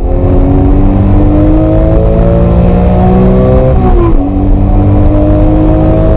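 Porsche 911 GT3 (996) naturally aspirated flat-six pulling hard under acceleration, its pitch climbing steadily. About four seconds in the revs drop sharply on an upshift, then climb again in the next gear.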